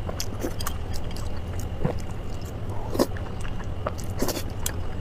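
Close-up chewing of soft pork brain in red chili oil: wet lip smacks and squishy mouth clicks at irregular moments, over a low steady hum.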